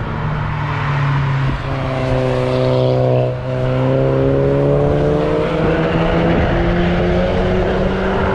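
Car engine under hard acceleration going past. There is a brief break at a gear change about three seconds in, then the engine pitch rises steadily.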